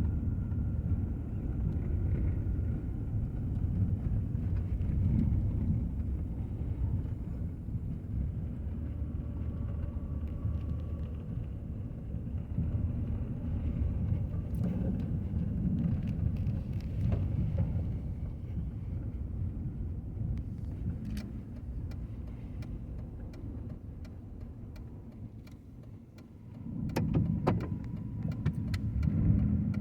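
Road noise heard inside a moving car: a steady low rumble. It dips quieter a few seconds before the end, then swells again with a few sharp clicks.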